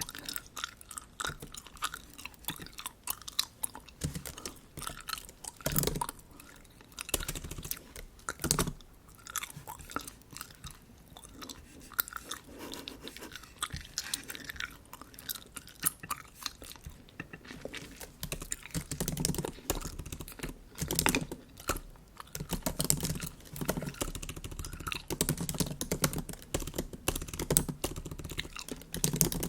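Bubble gum chewed close to the microphone: irregular wet smacks and clicks, getting busier and louder in the last third.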